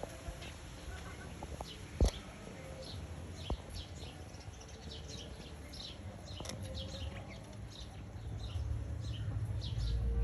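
Chicks peeping: many short, high, falling peeps repeating throughout. There are a couple of sharp knocks in the first few seconds and a low rumble over the last couple of seconds.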